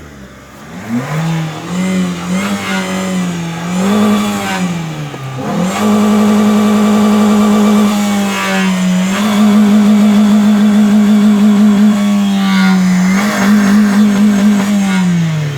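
Car engine revved hard with the accelerator pedal: a few short rising-and-falling blips, then held at high revs for several seconds at a time with two brief dips, and dropping back near the end.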